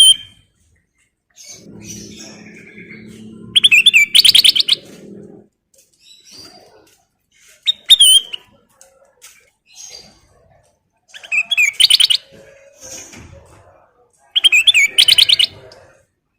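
Kutilang emas bulbul singing in loud, fast chattering bursts of rapid repeated notes, four bursts about three to four seconds apart, with softer single chirps between them.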